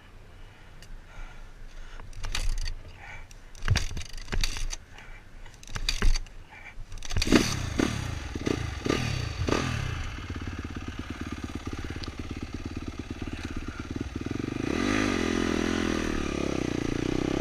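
Dirt bike engine being kick-started: several knocks and clatters, then it fires about seven seconds in with a few quick throttle blips. It settles into steady running and is held at higher revs near the end.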